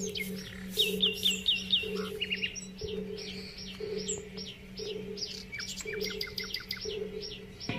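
Small birds chirping: quick series of short, high, down-slurred notes, about three a second, several calls overlapping, over a steady low hum.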